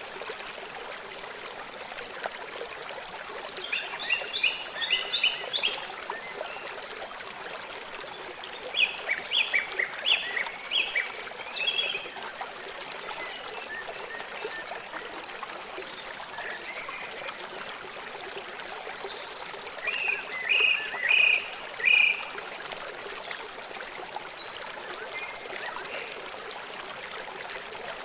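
Steady rush of a forest stream, with three bursts of quick chirping bird calls about four, ten and twenty-one seconds in.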